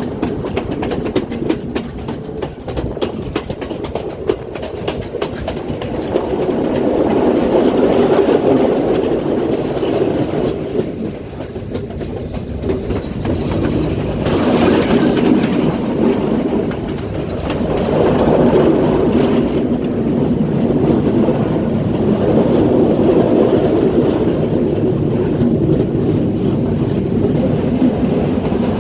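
Passenger train running along the track: a steady carriage rumble with wheels clattering over the rail joints, the clicks sharpest in the first few seconds. The rumble swells and eases several times.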